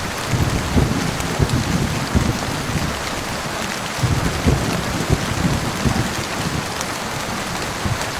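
Heavy rain falling steadily, with low thunder rumbling underneath in two spells: one starting just after the beginning and one about four seconds in.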